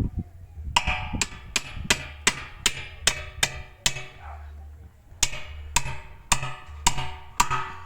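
Hammer blows on the metal of a backhoe wheel, each ringing: a quick run of about nine strikes, two or three a second, then a short pause and five more. A steady low hum runs underneath.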